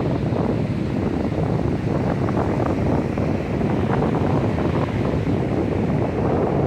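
Wind buffeting the microphone in a steady low rumble, with the wash of ocean surf beneath it.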